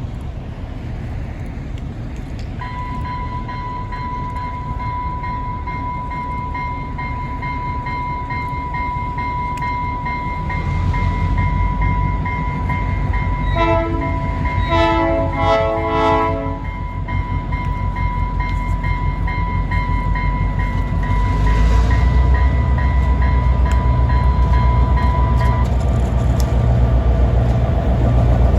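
A grade crossing warning bell rings steadily while an EMD GP9 diesel locomotive approaches. About halfway through, it sounds its horn in several short blasts. The diesel engine rumble then grows louder as the locomotive passes, and the bell stops near the end.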